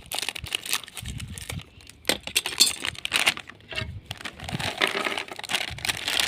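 Plastic snack packet crinkling and rustling as it is cut open and handled, in a quick run of irregular crackles.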